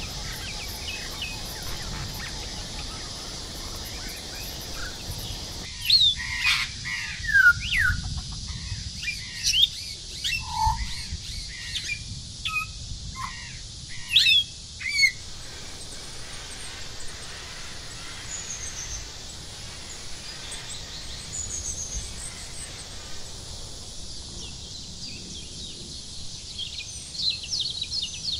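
Birds chirping over a steady high hiss of forest background. A burst of loud, short, falling chirps begins about a quarter of the way in and runs to the middle, with fainter high whistled notes after it and a few more chirps near the end.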